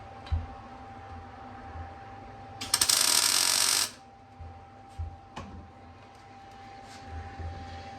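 A welding arc crackling in one short burst of about a second, a few seconds in, with a few light clicks and knocks around it and a faint steady tone underneath.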